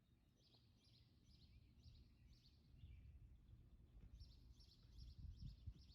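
Near silence: faint outdoor background with a small bird chirping faintly, a short chirp roughly every half second.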